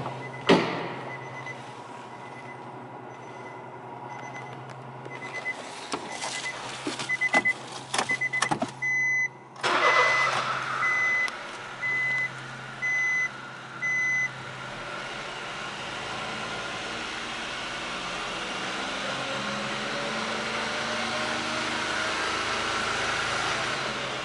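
Honda Life kei car's three-cylinder engine being started: a thump, a repeating warning chime and several clicks, then the engine catches about ten seconds in with a burst and settles into a steady idle. The chime keeps beeping for a few seconds after the start.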